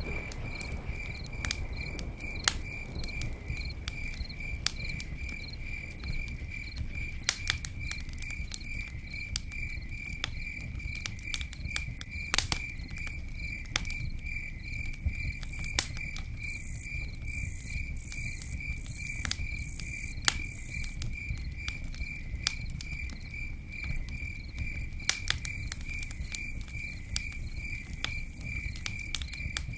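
Campfire burning with sharp crackles and pops scattered over a low steady rush, while a cricket chirps in an unbroken high pulsing trill.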